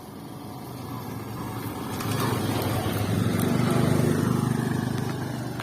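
A motor vehicle's engine comes closer and grows louder to a peak about four seconds in, then begins to fade, like a vehicle passing by.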